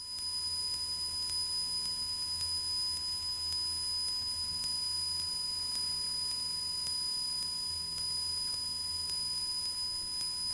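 Cessna 172's four-cylinder piston engine at full climb power, heard as a low steady drone, with a thin steady high-pitched whine over it.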